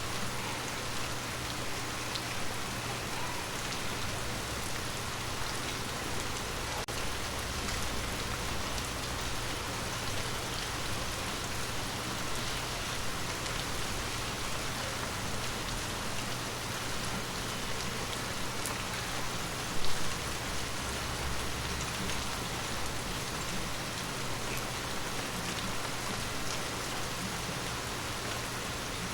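Steady rain falling on forest leaves: an even hiss with scattered drop ticks. One louder, low thump comes about two-thirds of the way through.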